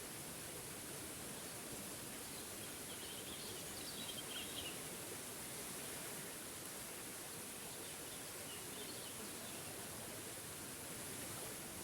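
Steady rush of a small forest waterfall, with a bird chirping faintly over it, first between about three and five seconds in and again near nine seconds.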